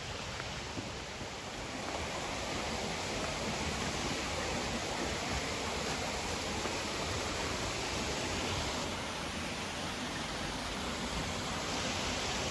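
Small creek waterfall rushing: a steady wash of falling water that grows a little louder about two seconds in.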